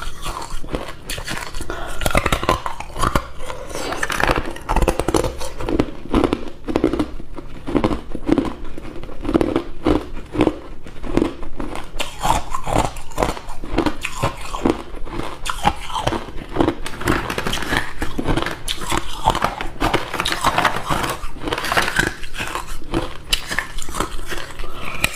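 Close-up chewing of hard ice cubes: continuous, irregular crunching and cracking as the ice is bitten and ground between the teeth.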